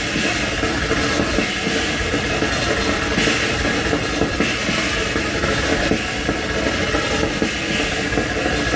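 Harsh noise music played live: a dense, steady wall of noise with no beat or melody, starting and stopping abruptly.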